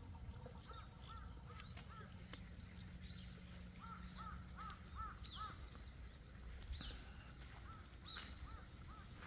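Birds calling outdoors: short arched notes repeated in quick runs, over a faint low rumble.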